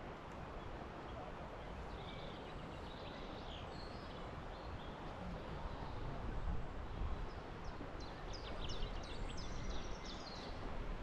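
Wind rushing through woodland with a low, gusty rumble, and songbirds singing over it: a few short high calls two to three seconds in, then a quick run of high chirps near the end.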